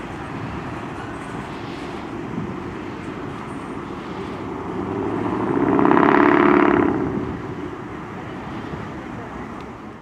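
Double-stack container freight train rolling away steadily on the rails. Through the middle an engine swells loudly and fades again, like a road vehicle passing close by.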